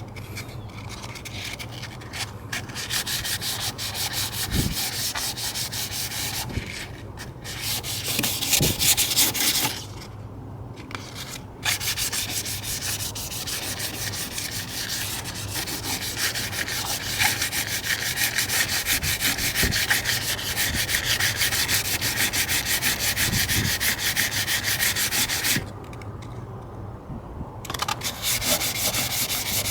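800-grit sandpaper rubbing on worn fiberglass trim in rapid, even strokes, stopping briefly about ten seconds in and again near the end.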